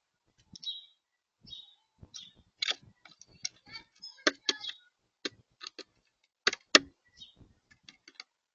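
Birds at a feeder close to the microphone: irregular sharp taps and clicks of pecking and landing on the feeder, with a few short high chirps.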